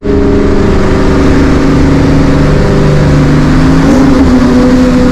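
Supercharged V8 car engine running hard under full throttle in a roll race, a loud steady engine note with a short upward shift in pitch about four seconds in.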